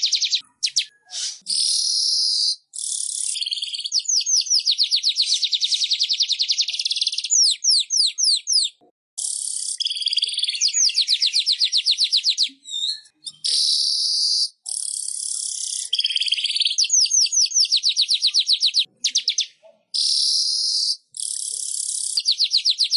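Manyar (weaver bird) song: long, high-pitched phrases of rapid chattering trills, broken by short pauses and repeating throughout.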